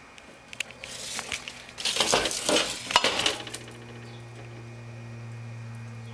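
Clattering and rustling of objects being handled, with sharp clicks, for a couple of seconds, then a steady low hum.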